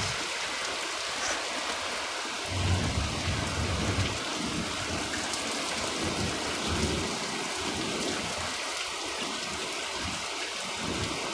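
Steady rain falling, with low thunder rumbling in from about two and a half seconds in and grumbling on and off after that.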